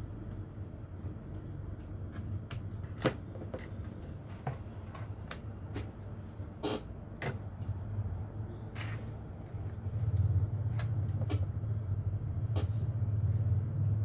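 Scattered light clicks and taps, about a dozen, over a steady low hum that grows louder about ten seconds in.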